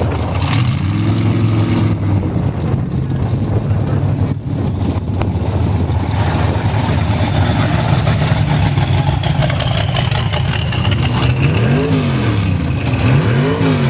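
Drag-racing truck engine running at idle, with two quick throttle blips near the end that rise and fall in pitch.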